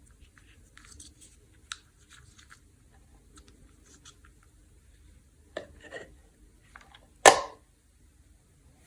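Peanut M&M's candy and packaging being handled: light crinkling and ticking, a few clicks, then one loud sharp crack about seven seconds in.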